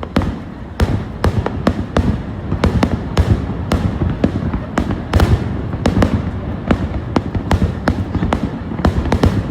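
Fireworks bursting in a rapid, irregular barrage: sharp bangs and cracks several times a second, some much louder than others, over a continuous low rumble.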